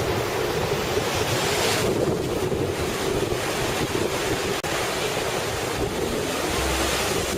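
Heavy typhoon surf crashing and rushing continuously, with strong wind buffeting the microphone.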